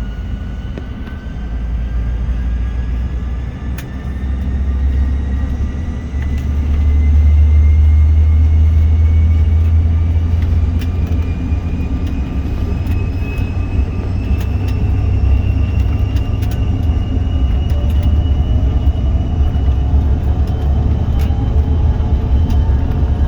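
Airplane engines spooling up for takeoff: a heavy steady rumble with a thin whine that rises slowly in pitch, and a second rising whine joining near the end.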